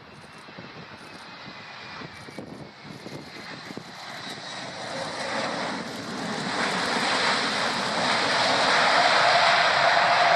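Fixed-wing aircraft engine noise growing steadily louder as the plane comes closer, with a steady tone coming in over the last couple of seconds.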